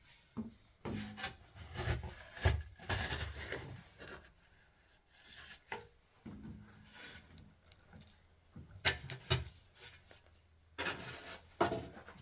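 Irregular scraping and rubbing strokes in several separate bouts, with short sharp knocks among them.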